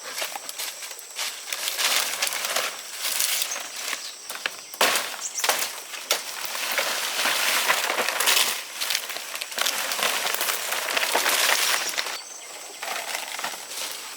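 Dry rice stalks rustling and crackling as they are handled during a hand harvest, a dense crisp rustle with many small snaps that eases off near the end.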